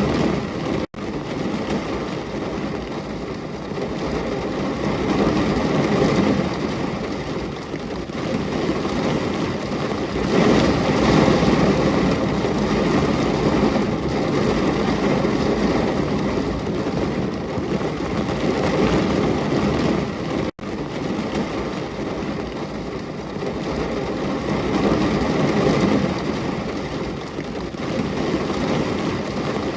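Steady heavy rain, a dense even hiss with a low rumble, swelling and easing slightly. It cuts out for an instant twice, about a second in and again about twenty seconds in.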